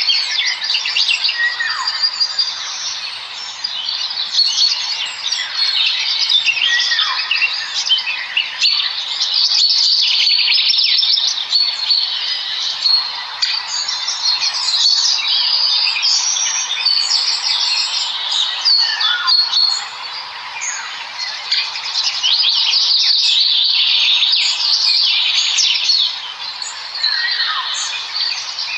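Many small birds chirping and chittering at once in a dense, continuous chorus, with a few longer falling calls every several seconds.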